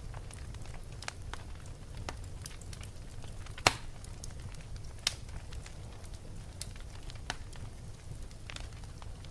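Wood fire burning in a fireplace, crackling: scattered sharp pops over a low steady rumble, with the loudest pop about three and a half seconds in and another strong one a second and a half later.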